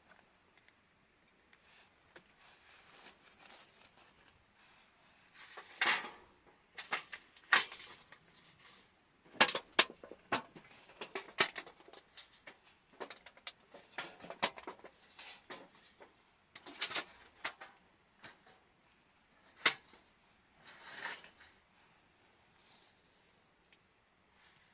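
Irregular clicks, clinks and short rustles of camping gear being handled by hand, with the sharpest knocks about six, ten, seventeen and twenty seconds in.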